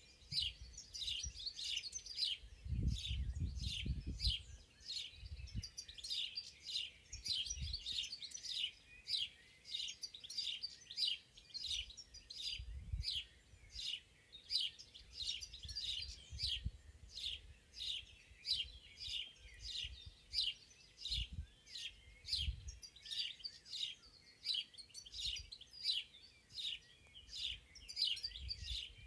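Songbirds chirping in spring woodland: a continuous stream of short high notes, about two a second, with occasional low rumbles, the strongest about three seconds in.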